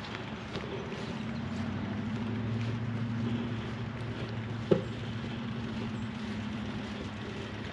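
A steady, low engine drone, swelling for a couple of seconds and then easing back, with one sharp click about halfway through.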